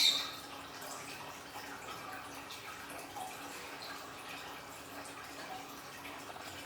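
Small aquarium waterfall trickling and dripping steadily, with scattered little drip sounds. A brief sharp sound stands out right at the start.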